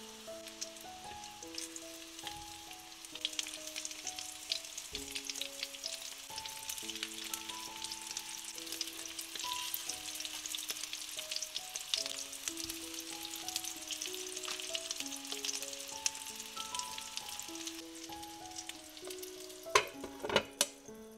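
Bell pepper patties sizzling and crackling in shallow oil in a frying pan, with a fork clicking against the pan as they are turned. A little before the end a glass pan lid clinks down onto the pan. Soft background music with a simple melody lies underneath.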